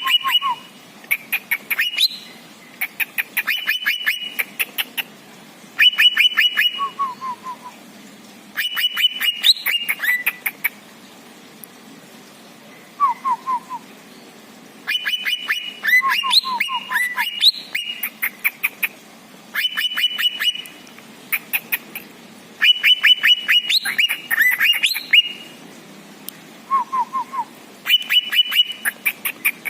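Crickets (jangkrik) chirping in groups of rapid pulses, each group a second or two long and repeating every few seconds. Short, falling whistled bird notes sound between the groups.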